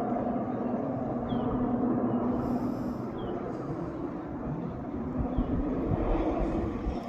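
A firefighting water-bomber aeroplane's engine drones steadily, with a held hum. Low rumbling gusts come in during the second half.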